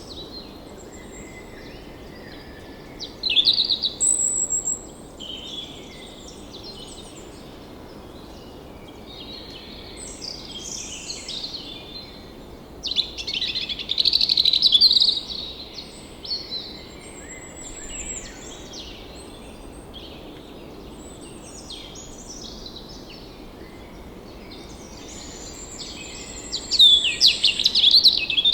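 Several songbirds singing and chirping in short, varied phrases over a steady background hiss, with louder bursts of song about three seconds in, in the middle and near the end.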